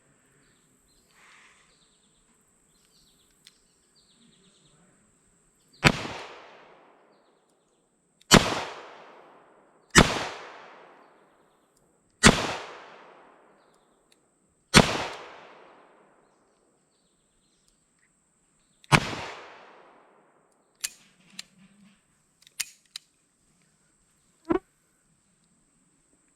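Six single revolver shots from a Smith & Wesson Model 66 .357 Magnum with a 4.25-inch barrel, fired at uneven intervals over about thirteen seconds, each a sharp crack with a long echo trailing off; six shots empty its six-shot cylinder. A few light clicks and a short knock follow near the end.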